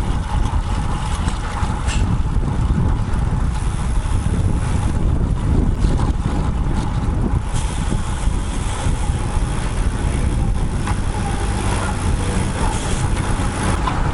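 Steady wind rush and road noise on a bike-mounted action camera's microphone while riding a road bike.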